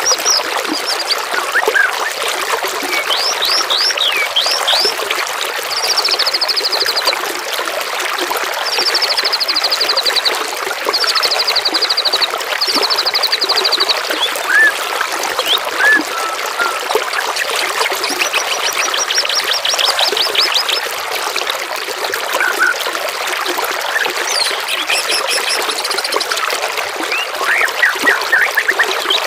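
Steady trickling, running water with songbirds singing over it: several short, fast, high trills and scattered chirps and whistles.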